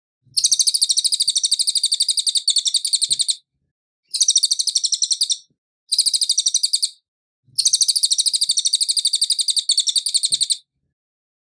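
A cililin songbird singing four bouts of fast, evenly repeated high notes, about ten a second. The first and last bouts last about three seconds each, and the two in the middle are shorter, with short silent gaps between them.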